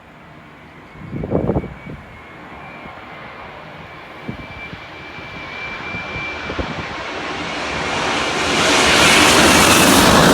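Jet airliner passing low overhead close to the runway, its engine noise swelling steadily to loudest near the end over a thin high whine. A short knock sounds about a second in.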